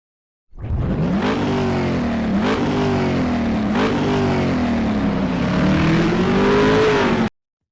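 Motorcycle engine accelerating hard through the gears: the pitch climbs, drops sharply at three quick upshifts, then rises in one long pull before cutting off suddenly.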